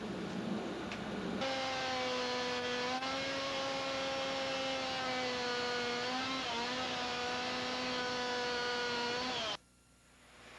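Two-stroke chainsaw engine running roughly, then revving up after about a second and a half to a high, steady whine held for several seconds with a couple of small dips. It cuts off abruptly near the end.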